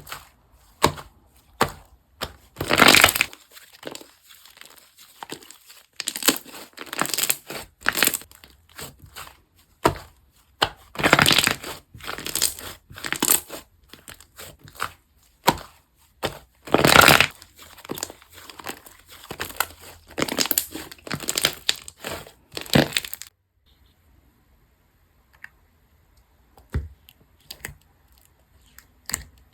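Slime being squeezed and pressed by hand, giving repeated crackling, crunching squishes in irregular bursts; the sounds stop about three quarters of the way through, leaving only a few faint clicks.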